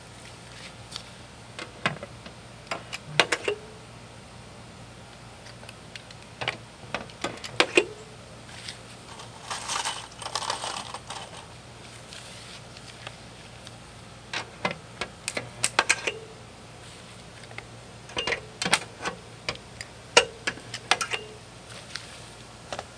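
Irregular sharp metal clinks and knocks in clusters, with a short scraping rasp about ten seconds in: metal dent-pulling tools being handled and worked against pins welded onto a steel tailgate panel.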